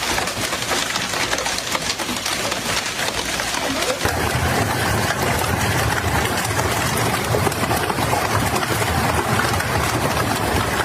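Hailstones pelting hard surfaces: a dense, continuous clatter of many small impacts, with a steady low rumble joining in about four seconds in.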